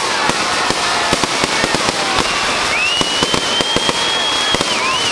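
Fireworks going off in rapid succession, a dense, continuous crackle of small bangs. About halfway through, a high whistle rises and holds for about two seconds before dipping away.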